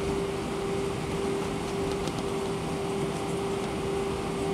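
Steady cabin noise of an Airbus A319 taxiing after landing: engines at idle and the rush of the air conditioning, with a steady mid-pitched hum.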